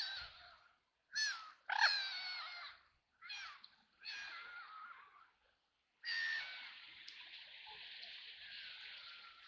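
Ducks quacking: a string of short, harsh quacks with pauses between them, then a longer drawn-out rasping call from about six seconds in.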